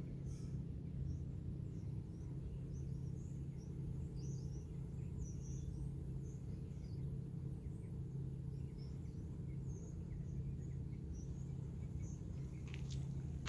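Small birds chirping in short, scattered calls over a steady low background rumble, with a couple of sharp clicks near the end.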